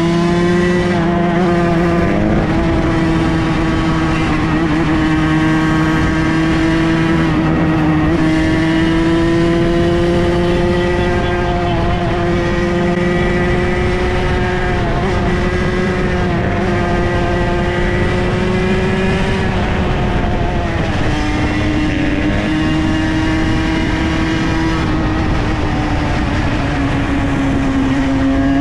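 Several dirt bike engines running together at a steady speed, their pitch drifting slowly up and down.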